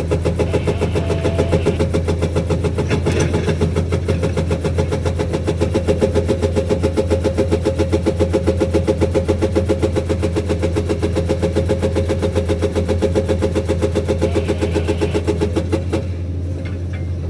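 Hydraulic breaker on a Komatsu PC210 excavator hammering in a rapid, even train of blows over the machine's steady diesel engine. The hammering stops near the end, leaving the engine running.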